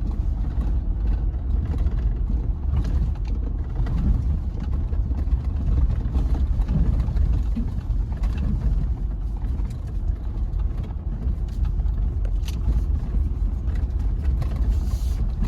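Jeep Gladiator driving slowly over a dirt trail: a steady low rumble of engine and tyres, with scattered clicks and knocks.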